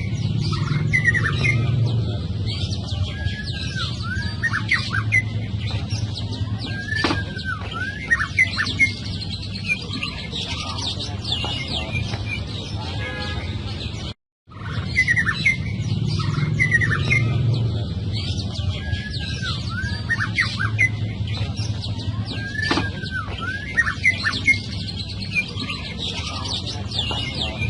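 White-rumped shama singing a run of varied whistled phrases with sliding and swooping notes, over a steady low hum. The song cuts out briefly about 14 seconds in, then the same sequence of phrases starts over.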